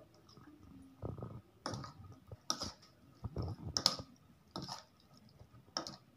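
A metal spoon stirring chunks of marinated pork in a plastic bowl: irregular clinks and scrapes against the bowl, with the wet squish of meat in soy-sauce marinade.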